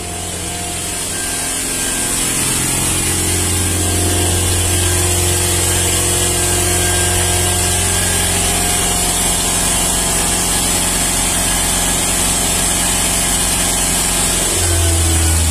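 Steady machine hum with a loud high hiss during on-vehicle diesel particulate filter cleaning on a Ford Transit. The hum shifts to a different pitch near the end.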